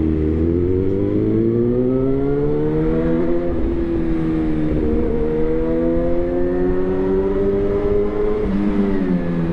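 Suzuki GSX-R1000 inline-four engine running through a replica SC-Project exhaust, its note climbing slowly, dropping back briefly about three and a half seconds in, then climbing again and falling away near the end.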